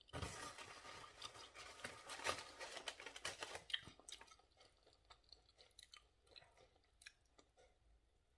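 A person chewing a breaded fried chicken nugget close to the microphone, with soft crunching and mouth sounds for about the first four seconds, then only faint scattered clicks.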